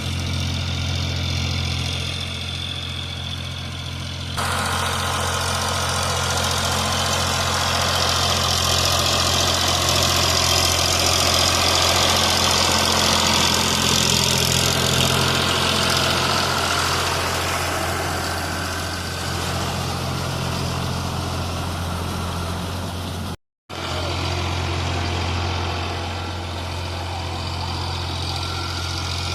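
Eicher 551 tractor's diesel engine running at a steady pitch while pulling a rotavator. About four seconds in, a loud, wide rushing, churning noise from the rotavator working the soil joins the engine. The sound cuts out completely for a moment near the end.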